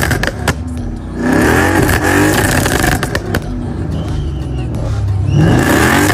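Ford Mustang GT's V8 exhaust revved repeatedly, the pitch climbing and falling back, with sharp pops and crackles from the exhaust as the revs drop.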